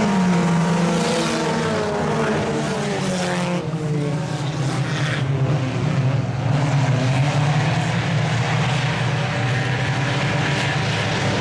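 A pack of IMCA Sport Compact race cars running under power, their four-cylinder engines overlapping with several engine notes rising and falling.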